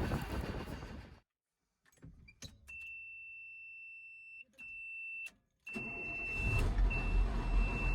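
Old Cummins diesel engine cold-starting: with the key on, a steady high-pitched warning beep sounds, then the engine cranks and catches a little past halfway and settles into a steady run while the beep carries on. The engine gives an easy, uneventful cold start.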